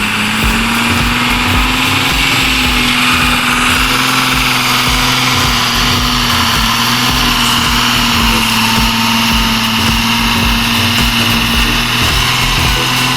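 Truck engine running steadily at a constant pitch.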